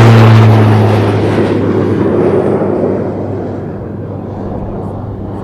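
Farnborough Aircraft F1 Kestrel prototype flying past: its Pratt & Whitney PT6A-67A turboprop and large Hartzell propeller make a loud low hum with a roar. The sound is loudest at the start, dips slightly in pitch as the aircraft passes, then fades away.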